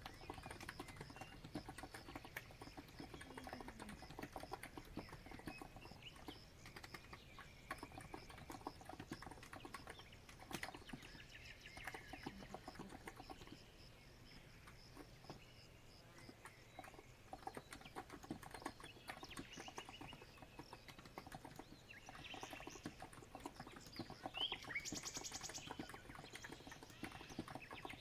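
Steady typing on a COX Empress electro-capacitive keyboard, a dense run of soft key clacks, with birds chirping in the background, most clearly near the end.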